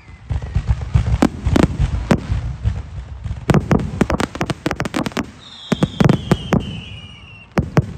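Aerial display fireworks bursting in a rapid, uneven string of sharp bangs over a low rumble, with a long falling whistle from about five seconds in.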